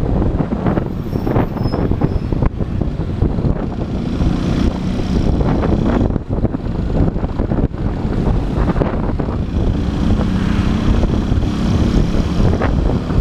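Motorcycle engine running while riding, with wind buffeting the camera microphone. The engine note comes through more clearly about a third of the way in and again toward the end.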